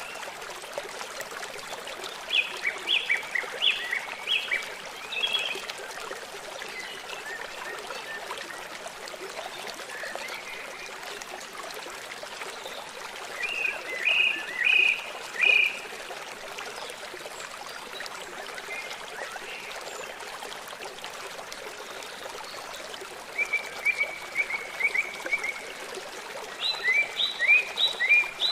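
Songbirds singing in short phrases of quick, sharp chirps, four bursts in all, one a fast even trill of repeated notes. Under them runs the steady rush of a flowing stream.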